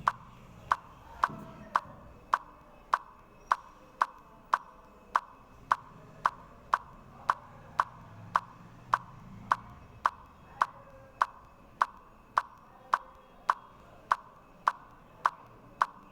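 A steady, even ticking: sharp, high clicks, a little under two a second.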